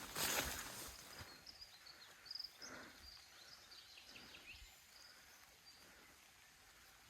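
A brief noisy scuffle in the first second, then faint, high, short chirps of small birds over a quiet outdoor background.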